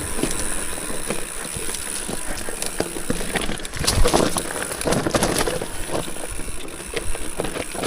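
Mountain bike moving slowly over the ground: tyre crunch, with scattered clicks and rattles from the bike, thickest about halfway through, over a steady hiss.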